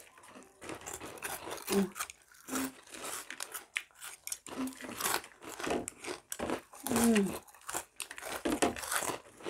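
Kurkure corn puff snacks being bitten and chewed: irregular crisp crunches throughout, with a few short hums and voice sounds between them.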